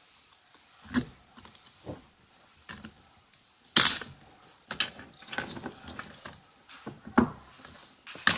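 Laptop battery pack being taken apart by hand: irregular clicks, knocks and scrapes of its hard plastic casing. A loud sharp knock comes just under four seconds in and another just after seven seconds.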